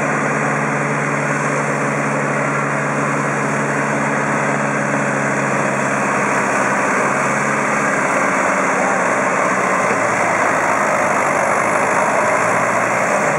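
Ford 7700 farm tractor's six-cylinder diesel engine running hard under load while pulling a sled, a steady heavy engine note.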